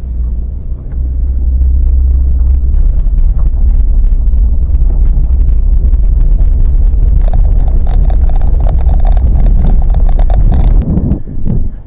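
Wind buffeting the microphone over the steady low rumble of an open boat running on the water. A harsher, higher-pitched noise joins about seven seconds in and falls away shortly before the end.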